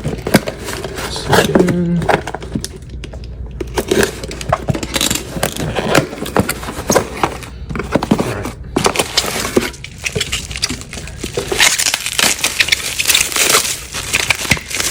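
Cardboard mailing box being torn open by hand, with tape and cardboard ripping and packing material crinkling in many sharp clicks and scrapes, turning into a denser crackly rustle over the last few seconds.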